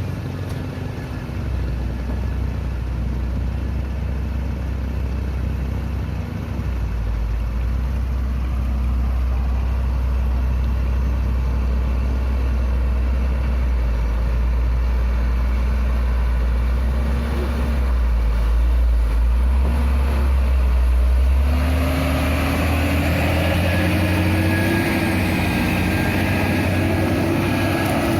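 Truck engine running with a deep, steady rumble; about three-quarters of the way in it grows brighter and its note slowly rises as the engine revs up.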